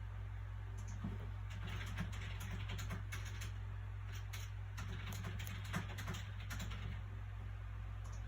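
Soft paper sounds from a book's pages being handled: a run of short, crisp rustles and crinkles from about a second in until near the end, over a steady low background hum.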